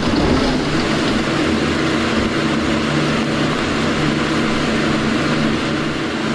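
An engine running steadily: a low, even hum under a broad hiss, with no change in speed.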